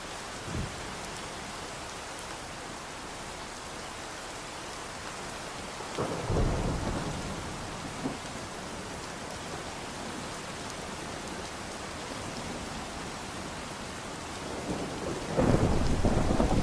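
Steady rain with two rolls of thunder: a rumble about six seconds in that fades over a couple of seconds, and a louder one starting near the end.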